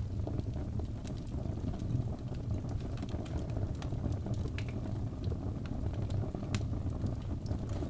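Wood fire burning in a fireplace: a steady low rumble of flame with irregular sharp crackles and pops from the burning wood.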